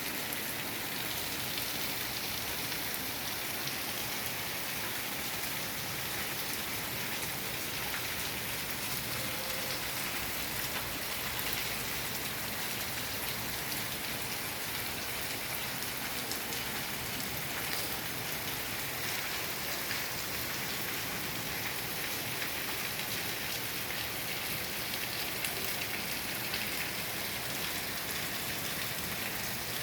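Heavy rain falling steadily on hard surfaces, a dense even hiss with fine scattered drop ticks.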